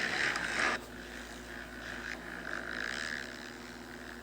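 Motocross dirt bike engines revving on the track, loud at first and cutting off abruptly under a second in, after which fainter revving swells up and down over a steady low hum.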